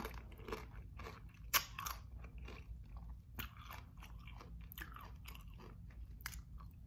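Tortilla chips being bitten and chewed: a scatter of crisp crunches, the sharpest about a second and a half in and again a couple of seconds later.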